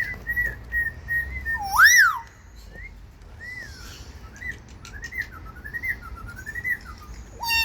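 A bird whistling: a string of short whistled notes, one loud rising and falling whistle about two seconds in, then a varied warbling run of quick notes, and a strong call near the end.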